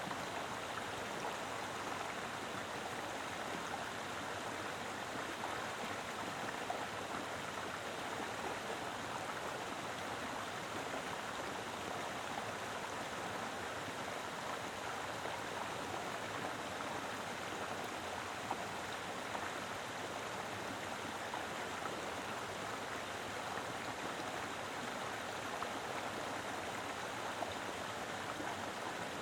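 Mountain river flowing strongly over rocks: a steady, full rush of water with small splashes and gurgles in it.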